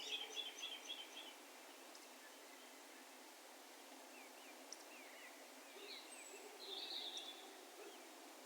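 Wild birds calling over faint steady background noise: a quick run of about five high notes at the start, several short slurred whistles around the middle, and a brief chattering burst later on.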